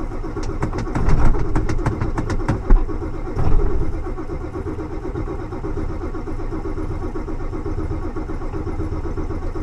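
Ford F-250 diesel engine being cranked by its starter on a cold start with starter fluid. A few loud sputters from about one to four seconds in show it firing briefly, but it does not catch. The owner suspects the glow plugs or their harness.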